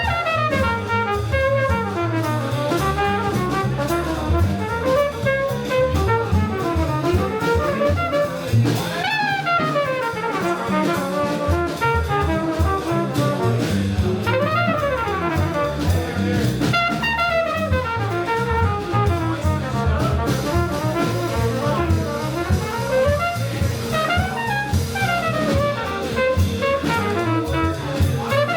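A live jazz band playing, with a brass horn soloing in quick rising and falling runs over walking bass and a drum kit.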